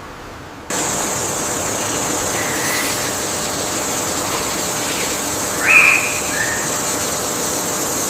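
Wildlife ambience that cuts in abruptly just under a second in: a steady high-pitched hiss with two short animal calls over it, a faint one at about two and a half seconds and a louder one about six seconds in.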